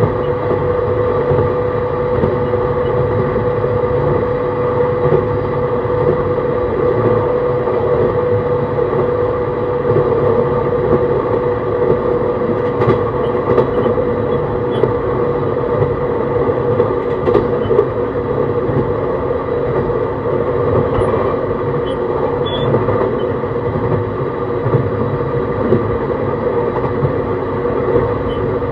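JR East E131 series 600 electric multiple unit running at an even speed, heard from inside the car: a steady rumble of wheels on rail under several constant-pitch drive tones, with a few faint clicks in the middle.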